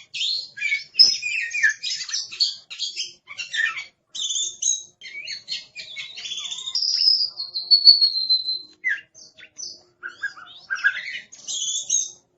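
Oriental magpie-robin (kacer) singing a busy, varied song of rapid chirps and whistled phrases, with a long falling whistle about seven seconds in.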